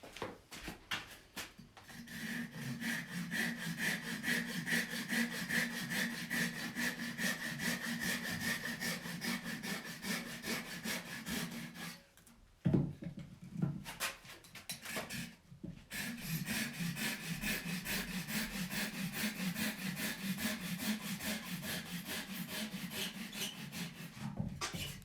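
Hand saw cutting across a wooden cup blank with rapid, even back-and-forth strokes, in two long runs with a short pause between them. During the pause there is a single sharp knock. The cut sets the height of the cup before the waste is split away.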